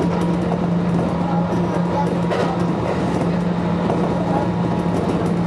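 Kintetsu electric train running along the line, heard from inside the front car: steady running noise with a constant low hum.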